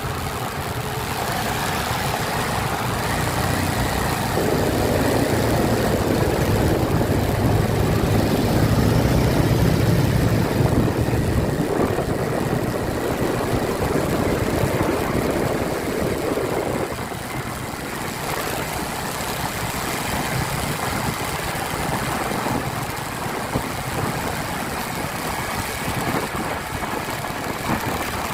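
Motorcycle engine running on the road while riding. It grows louder about four seconds in and eases off around seventeen seconds.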